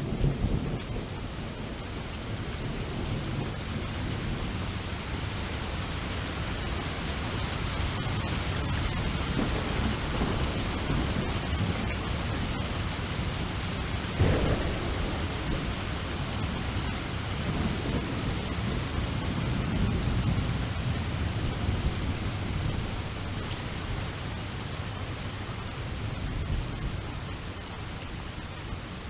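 Steady rain with rolling, low thunder that swells and fades, and one sharp thunderclap about halfway through.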